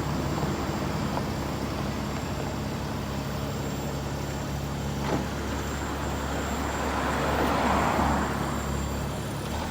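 A truck engine running steadily, with a rushing hiss that swells and fades about seven to eight seconds in.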